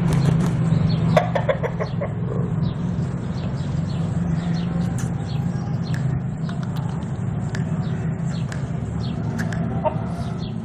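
Aseel rooster clucking in a short run of calls about a second in, over a steady low hum.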